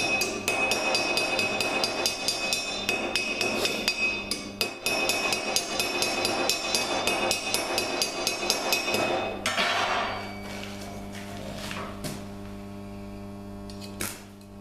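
Rapid, regular metallic tapping, about four strikes a second, that stops about nine and a half seconds in. A steady low hum follows.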